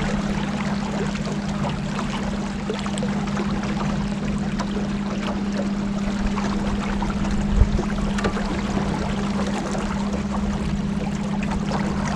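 Boat motor running steadily at cruise, a constant hum under the rush of water along the hull. A brief low thump about two-thirds of the way through.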